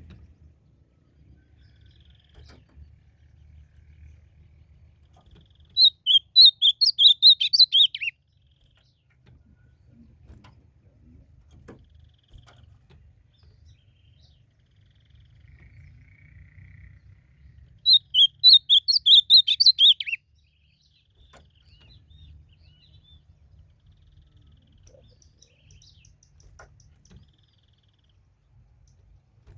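Ultramarine grosbeak (azulão) singing: two song phrases about twelve seconds apart, each about two seconds of quick warbled notes ending in a downward slur.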